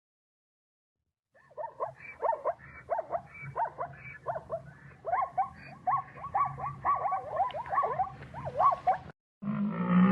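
A rapid series of short animal calls, several a second, each sweeping up and down in pitch. They start about a second and a half in and stop abruptly near the end, where a deeper, steadier animal call begins.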